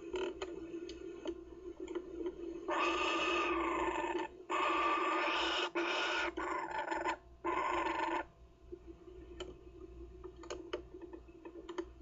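Kookaburra giving harsh, raspy calls in three long bursts over about five seconds, with a steady low hum and scattered light clicks underneath.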